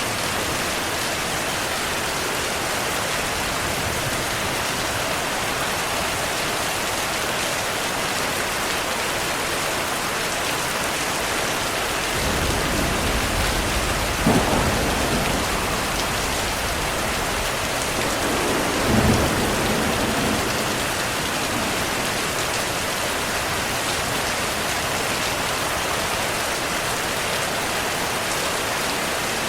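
Steady rain falling, with thunder rumbling in partway through. The rumble has a sharp crack a couple of seconds after it starts and a second swell a few seconds later, then dies away.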